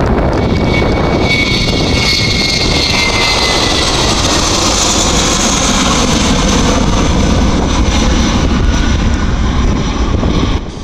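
Jet airliner close by, its engines making a loud steady rushing noise with a high whine that slides slightly lower in pitch; the noise drops off abruptly near the end.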